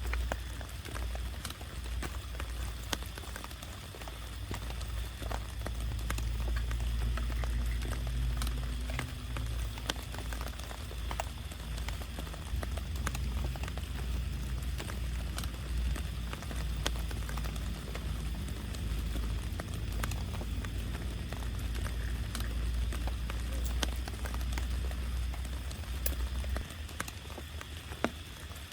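Heavy rain falling on a camping tarp, a steady hiss with many individual drops tapping sharply on the fabric over a low rumble.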